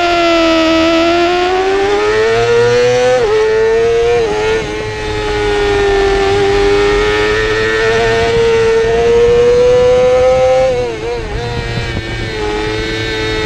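Yamaha YZF-R6 race bike's inline-four engine at high revs under racing load, with wind rushing past. The pitch climbs, then drops sharply twice about three and four and a half seconds in as it shifts up. It holds high, then dips and wobbles with the throttle closing about eleven seconds in before climbing again.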